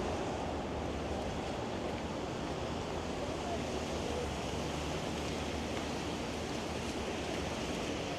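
Steady city traffic noise on a wide downtown avenue: an even wash of tyres and engines with no single vehicle standing out.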